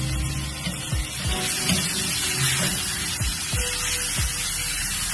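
Background music with a regular beat, over the steady hiss of chicken pieces sizzling as they fry in oil in a pot.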